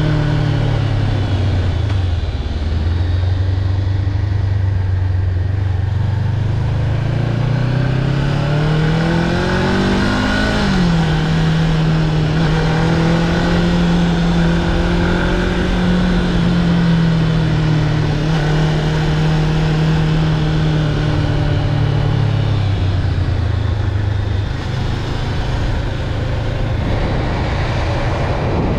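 Honda CB500X's parallel-twin engine under way, with wind and road noise. The engine note sinks early on, climbs for about three seconds under acceleration, drops sharply at a gear change about ten seconds in, holds steady, then falls again about 23 seconds in.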